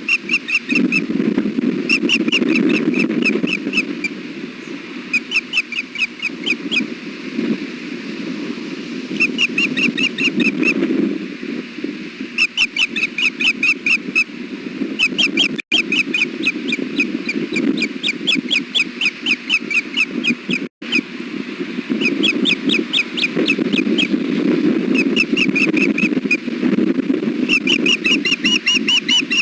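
Osprey giving bouts of rapid, high chirping alert calls, several notes a second, over a steady low rumble of wind on the microphone. The sound drops out for an instant twice midway.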